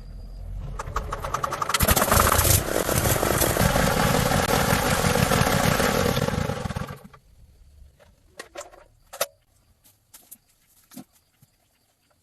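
A small engine fires up and runs loudly for about five seconds, then cuts off abruptly; a few light clicks and knocks follow.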